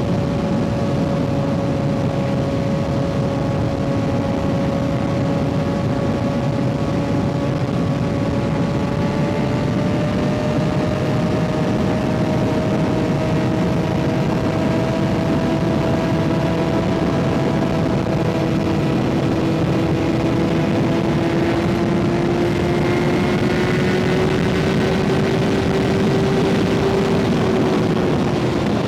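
Kawasaki ZX-6R 636's inline-four engine with an M4 exhaust, running steadily while riding, over a constant rush of wind. The engine note climbs slowly for most of the stretch, then drops slightly near the end.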